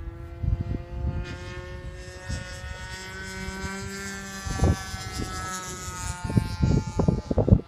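Radio-control model airplane flying overhead, its motor and propeller making a steady pitched drone that glides slowly up and then back down as it passes. Wind buffets the microphone throughout, with gusty low rumbling and thumps near the end.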